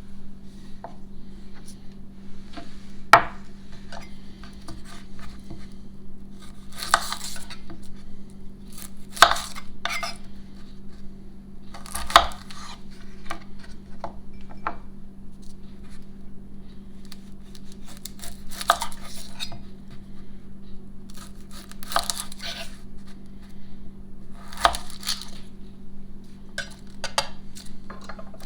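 Kitchen prep sounds: scattered knocks and short scrapes of a knife and utensils on a cutting board, a few seconds apart, over a steady low hum.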